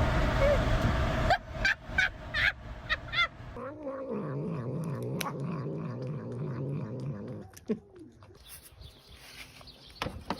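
A cat calling: a quick string of short rising meows, then one long, low, wavering yowl. The first second is a loud stretch of noise.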